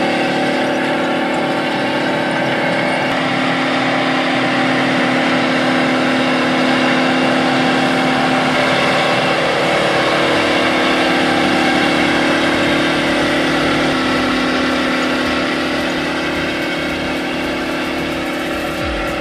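Big Bud farm tractor's large diesel engine running steadily.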